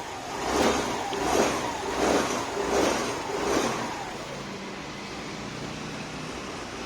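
Freshly reassembled Yamaha Fascino scooter engine revved in five quick throttle blips, each rising and falling in pitch, then settling to a steady idle.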